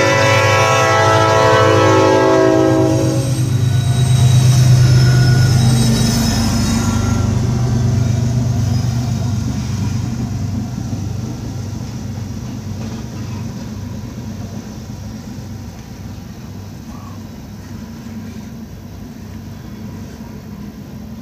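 Norfolk Southern freight train's locomotive horn sounding a chord of several tones, cutting off about three seconds in. The locomotive's rumble then swells as it passes, and the steady rumble and clatter of the freight cars rolling by slowly fades.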